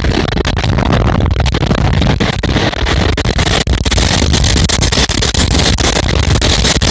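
Passenger train running at speed, heard at an open window: a loud steady rumble and rush of air, broken by many quick, irregular knocks and rattles.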